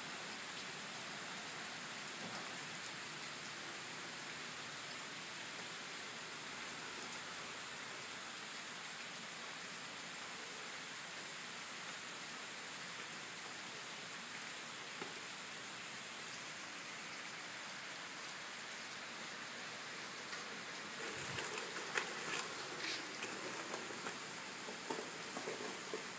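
Heavy rain falling on wet pavement: a steady, even hiss. From about twenty seconds in, irregular louder crackles and taps sound over it.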